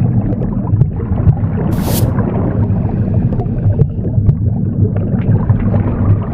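Womb sound: a steady, loud, low whooshing rumble. A single broom swish sweeps across it about two seconds in.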